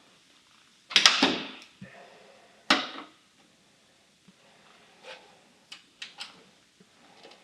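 A loud clattering knock about a second in, a second sharp knock near three seconds, then a few lighter clicks and taps: hard objects being handled and set down.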